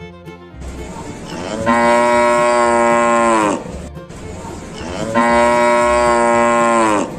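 Cow mooing twice: two long calls of about two seconds each, the pitch dropping at the end of each.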